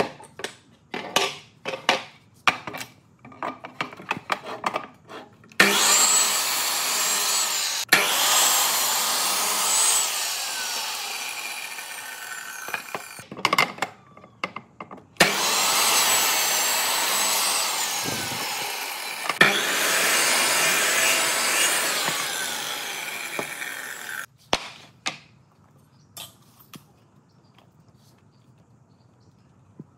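Short, quick strokes on wood for the first few seconds, then a power tool working wood in two long runs of about seven and nine seconds with a brief pause between, followed by a few light clicks.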